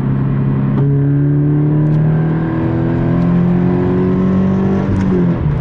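Subaru BRZ's 2.0-litre flat-four engine through an Invidia N1 cat-back exhaust, heard from inside the cabin while accelerating in third gear. Its deep tone climbs steadily in pitch from about a second in, then drops back near the end.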